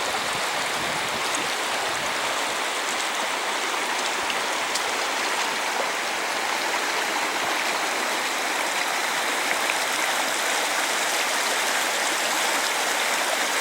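Fast, turbulent mountain river rushing steadily over rocks.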